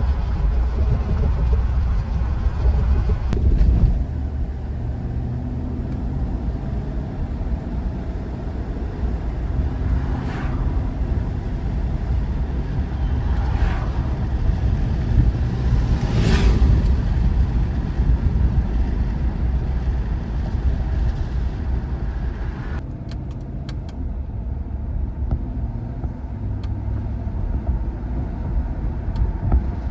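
A motor vehicle being driven: a steady low rumble of engine and road noise, with a few brief swells of noise around the middle.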